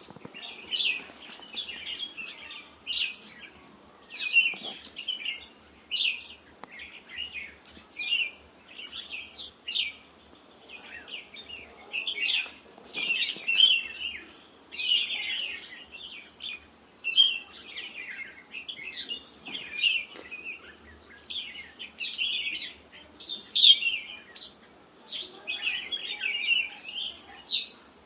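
Birds chirping: a steady stream of short, high chirps, several a second, without a break.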